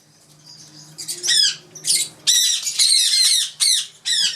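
Caged parrots screeching in quick, repeated, high-pitched calls, beginning about a second in after a short lull.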